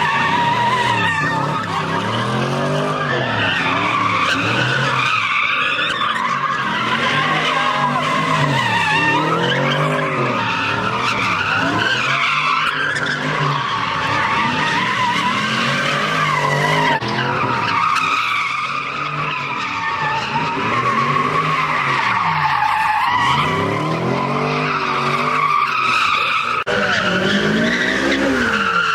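Car tyres squealing continuously as a car drifts or spins donuts, with a wavering pitch. Underneath, the engine revs rise and fall over and over, about once every two seconds.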